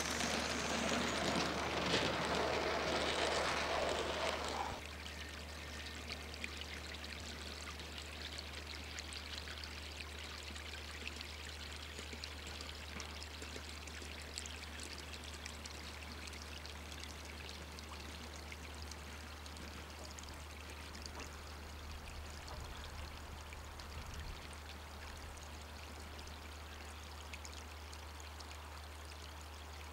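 A 16mm scale model locomotive giving off a steady hiss. A louder rush in the first few seconds drops off suddenly about five seconds in, leaving a fainter hiss with a light crackle and a low hum underneath.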